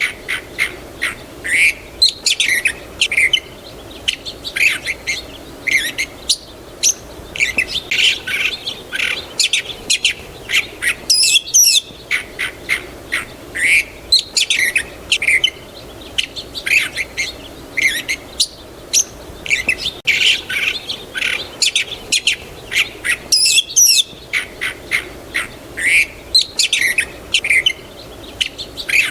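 Several songbirds chirping and calling in a dense, overlapping chorus of short high chirps, broken by a brief pause about every twelve seconds.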